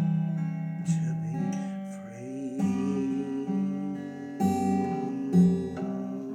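Acoustic guitar strummed in slow, ringing chords, a handful of strums letting each chord sustain: the closing bars of a solo folk song.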